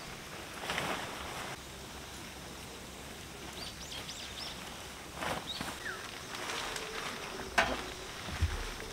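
Steady rain outdoors with rustling of tent fabric being gathered and packed. A few short bird chirps come about four seconds in, and a single sharp knock comes near the end.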